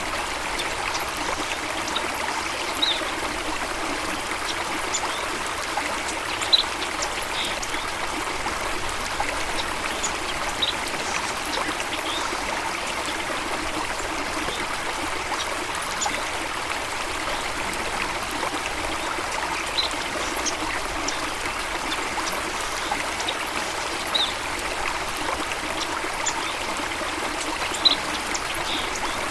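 Steady rush of flowing water, with short high bird chirps scattered every few seconds.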